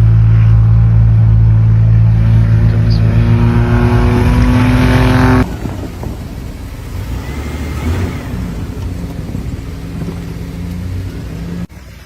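Car engine running loud, its pitch rising steadily as it revs up, until it cuts off sharply about halfway through. A quieter, rougher vehicle engine sound follows.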